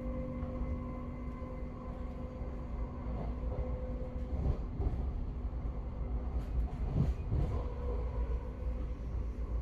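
Passenger train running: a steady low rumble with a steady hum that fades out about halfway through, and a few knocks in the second half.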